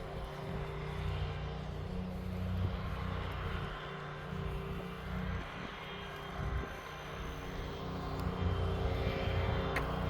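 Steady low engine drone with a rumble that swells and eases, with one sharp click near the end.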